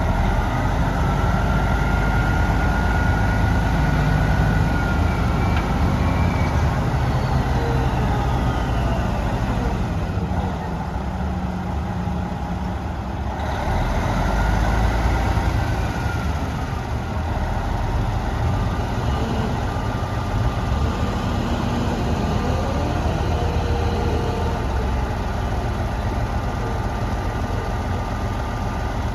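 The diesel engine of a 1989 Peterbilt 378 dump truck idling steadily.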